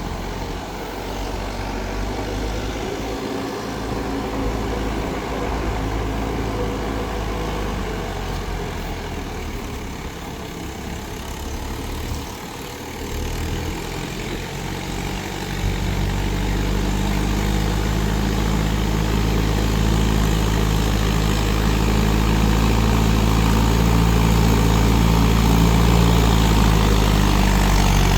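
Mahindra 4WD DI tractor's diesel engine running steadily, growing louder and heavier about halfway through.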